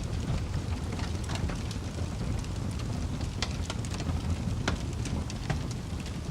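Fire crackling: irregular sharp pops and snaps, several a second and unevenly spaced, over a steady low rumble of burning.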